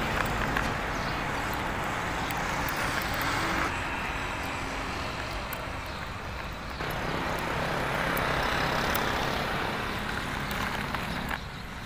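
Steady vehicle running noise, a dense rumbling hiss that changes abruptly about four and seven seconds in.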